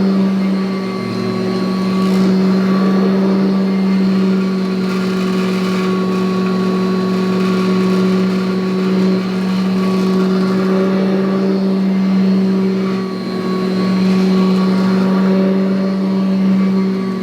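1984 Kirby Heritage upright vacuum cleaner running steadily: a constant motor hum with a higher whine over rushing air, the level dipping briefly a few times.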